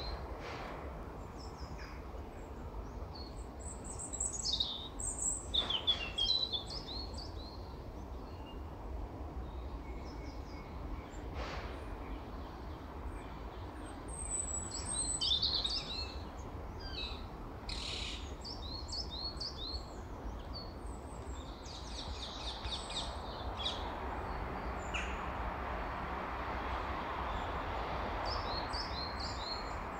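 Small woodland birds chirping and calling, with many short high notes and quick call series scattered throughout, over a steady low background rumble. A broad rushing noise grows louder over the last several seconds.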